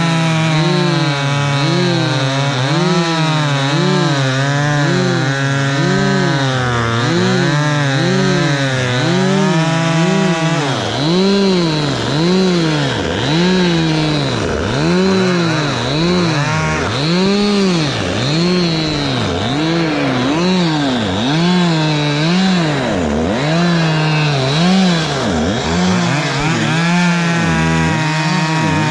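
Two-stroke chainsaw cutting through wood, its engine pitch rising and dipping about once a second as the saw loads and unloads in the cut. The dips get deeper about a third of the way in, and the note steadies near the end.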